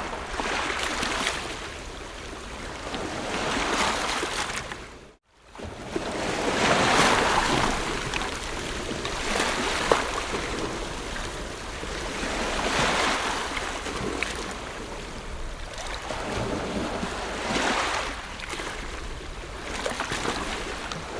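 Ocean waves breaking and washing up a shore, swelling and fading every few seconds. About five seconds in the sound cuts out for a moment, then a wave swells back in.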